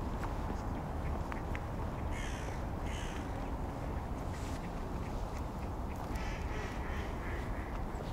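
Steady low outdoor rumble with bird calls over it: two short calls about two and three seconds in, then a run of calls from about six seconds in.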